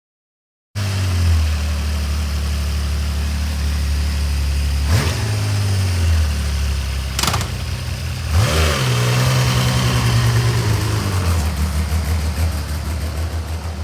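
Motorcycle engine idling, then revved twice: a short blip about five seconds in and a longer rise about eight seconds in, held for a couple of seconds before settling back to an uneven, pulsing idle. A sharp click sounds between the two revs.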